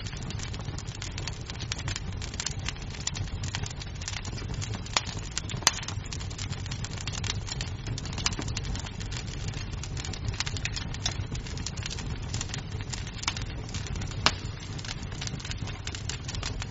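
Wood fire crackling in a fireplace: a steady low rumble of flames under many small snaps of burning wood, with louder pops about six seconds in and about fourteen seconds in.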